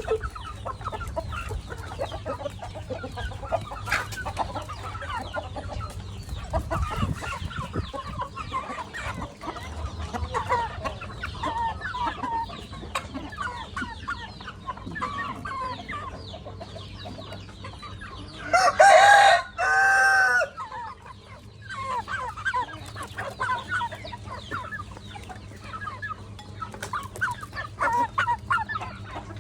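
A flock of chickens clucking and chattering at feeding time. Partway through, a rooster crows loudly once.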